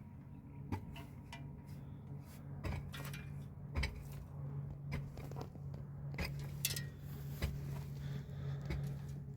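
Scattered light knocks and clatters, like objects being handled and set down, about one or two a second, over a steady low hum.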